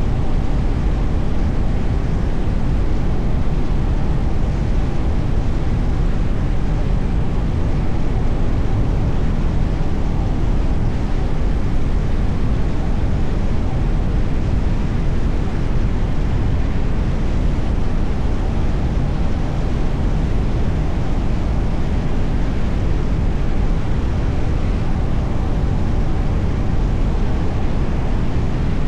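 Steady road noise from a moving car: a constant rumble of tyres and engine, heaviest in the low end, with no distinct events standing out.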